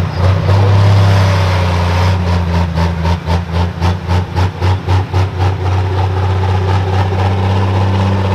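Turbocharged pro stock pulling tractor's diesel engine running loudly with a steady low drone. For a few seconds in the middle the sound pulses rapidly, about five times a second.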